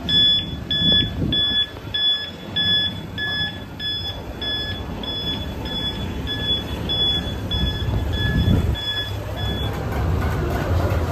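Vehicle reversing alarm beeping steadily, about one and a half beeps a second, over a low engine rumble; the beeping stops about nine and a half seconds in and the engine grows louder.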